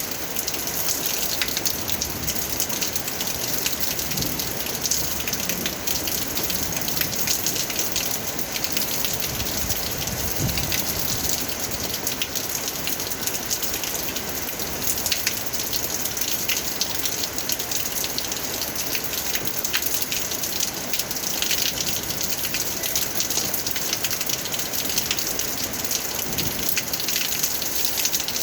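Steady rain falling: a dense, even hiss of countless drops with individual drop ticks through it.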